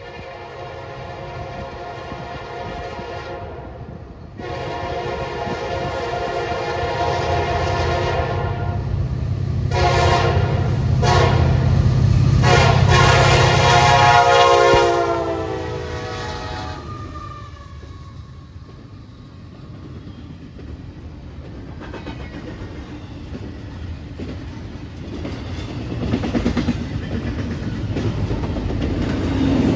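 Diesel locomotive air horn sounding several long blasts and two short ones as the train approaches, its pitch bending downward as the locomotive passes, over the rising rumble of the engines. Then the rolling clickety-clack of the train's cars going by.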